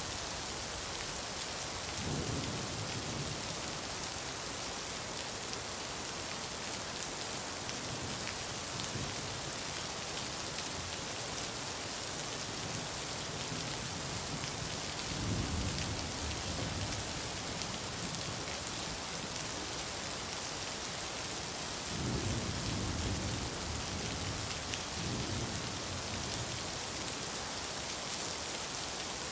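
Steady rain falling, an even hiss throughout, with a few brief low rumbles: one a couple of seconds in, one around the middle and a longer spell later on.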